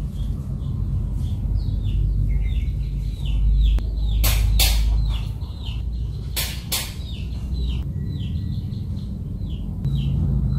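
Small birds chirping in quick, repeated short falling notes over a steady low rumble, with two pairs of brief swishing sounds about four and six and a half seconds in.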